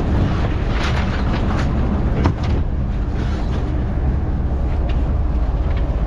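Fishing boat's engine running steadily, with a few short knocks over it, the sharpest about two seconds in.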